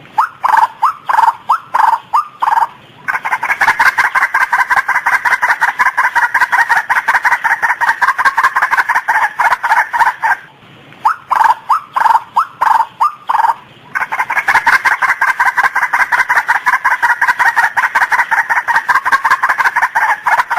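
Female white-breasted waterhen (ruak-ruak) calling. Each bout starts as a run of separate calls, about three a second, then speeds into a fast, unbroken stream of repeated notes lasting several seconds. The bout plays twice, with a short break near the middle.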